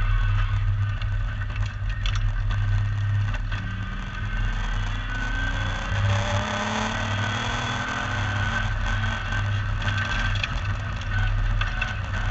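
MGB V8 race car's V8 engine running hard under racing load, with the engine note dipping briefly about four seconds in and gliding in pitch through the middle as it changes speed.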